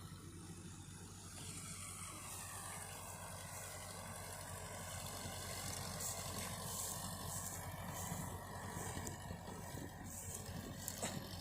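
Digitrac PP51i tractor engine running steadily, growing a little louder about a second and a half in.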